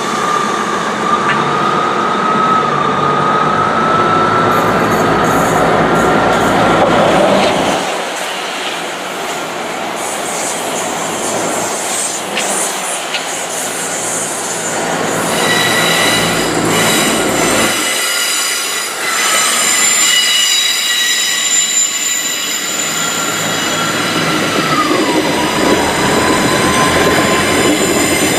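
A train of two coupled Class 159 diesel multiple units running through a station, its wheels giving a long, steady, high squeal on the curved track that dips slightly in pitch near the end, over the rumble of the train.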